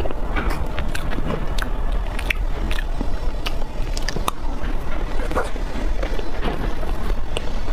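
Close-miked chewing and wet mouth sounds from eating chocolate mousse cake, with many small sharp clicks, over a steady low rumble.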